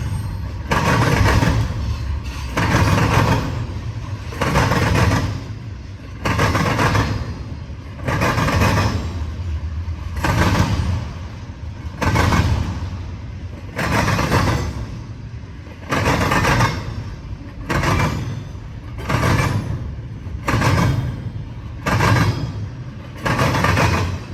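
Intermodal freight train passing, its car wheels clattering over the track in loud, evenly spaced bursts about every two seconds over a steady rolling rumble.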